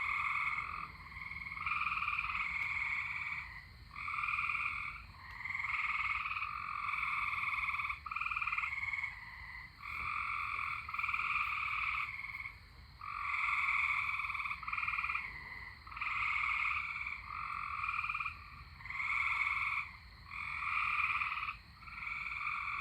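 A chorus of frogs calling: overlapping trills, each lasting about a second, one after another with short gaps.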